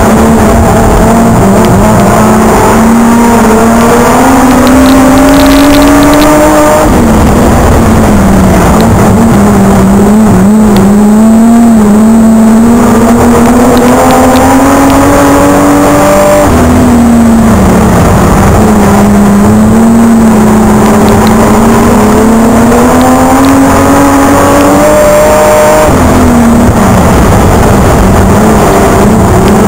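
Holden Torana race car's engine, heard loud from inside the cabin, climbing steadily in pitch for several seconds and then dropping off sharply, three times about ten seconds apart: accelerating along each straight and easing off for each turn of the oval.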